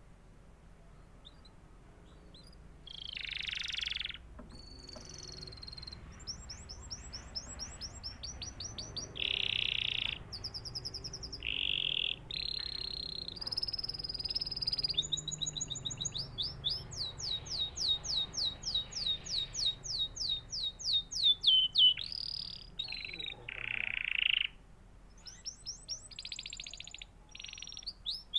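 Canary singing: long rapid trills of quickly repeated high notes, broken up by short harsher buzzy notes, starting about three seconds in.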